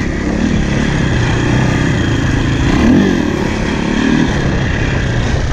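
KTM EXC enduro dirt bike engine running under way on the move, the revs rising and falling a little, highest about three seconds in.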